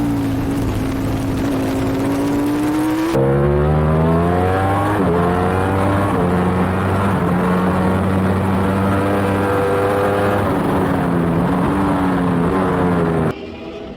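Racing superbike engine heard from on board at speed, with wind rush. Its pitch falls, then climbs under acceleration, drops once at an upshift, then holds at steady revs. The sound changes abruptly twice.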